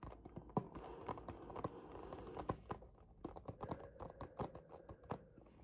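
Fingers tapping, many quick irregular light taps and clicks, some in short rapid runs.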